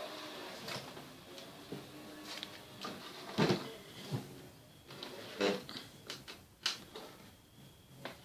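Scattered clicks and knocks of hand tools being picked up and set down on a work surface: screwdrivers being laid out. The loudest knock comes a little past three seconds in.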